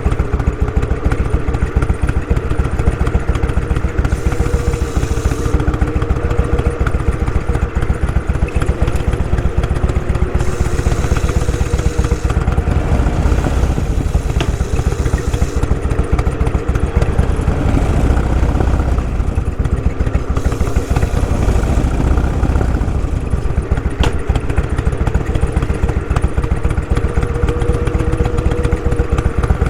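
Motorcycle engine running steadily under way, with a rapid low pulsing throughout. Patches of rushing hiss come and go over it.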